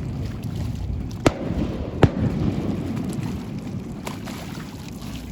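Fireworks shells bursting: two sharp bangs, about a second and two seconds in, over a low rumble that dies down toward the end.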